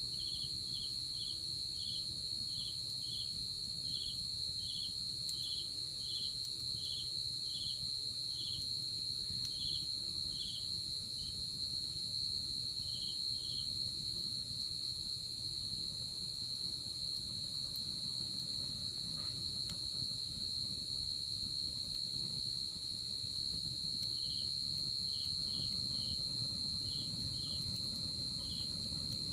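Night insects calling: a continuous high-pitched trill, with a second insect, such as a cricket, giving short chirps at about two a second. The chirping stops around the middle and returns briefly near the end.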